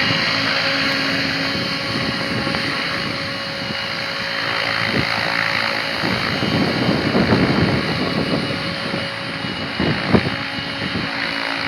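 Large radio-controlled helicopter in flight, its rotor and motor running with a steady drone and whine. Gusts of wind buffet the microphone, with one brief knock about ten seconds in.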